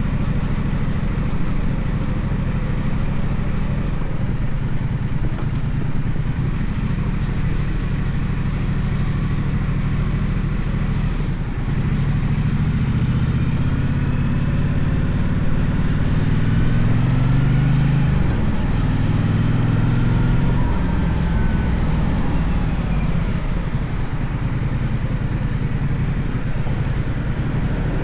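Gaokin GK1200 motorcycle engine running under way. Through the middle the pitch climbs as it accelerates, then it drops back to a steady run about three quarters of the way through.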